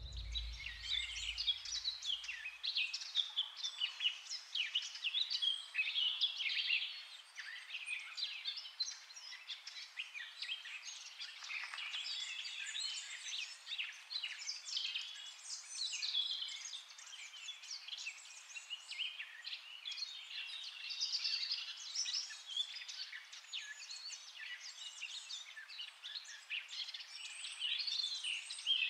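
Songbirds chirping and singing, many short overlapping calls that carry on without a break. The sound is thin, with nothing low beneath it.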